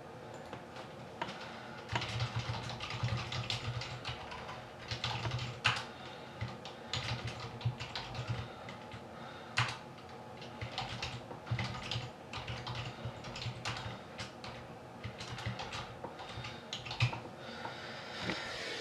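Typing on a computer keyboard: irregular runs of key clicks that start about two seconds in and keep going with short pauses.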